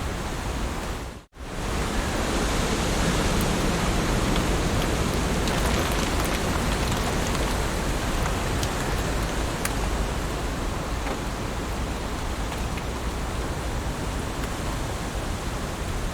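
Heavy rain falling steadily: a dense, even hiss with scattered drop ticks. It cuts out for a split second about a second in, then resumes.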